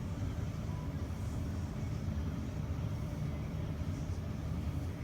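Vintage Bradford-Dominion box fan switched off and coasting down, its aluminium blade still spinning freely and giving a steady low rumble of moving air. It is a long, free coast-down on freshly oiled bearings.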